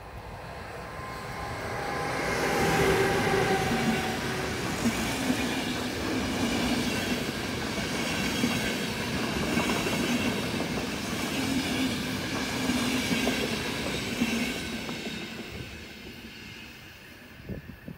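A passenger train of České dráhy coaches running past over the crossing: the wheel and rail noise builds over about two seconds, holds for some ten seconds as the coaches go by, then fades away.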